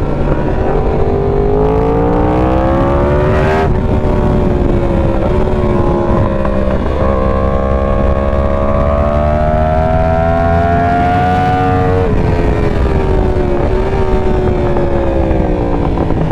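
Yamaha R1 sport bike's engine, through an aftermarket Competition Werkes exhaust, accelerating hard: the pitch climbs, drops sharply at a shift a few seconds in, climbs again for several seconds, then falls off as the throttle eases.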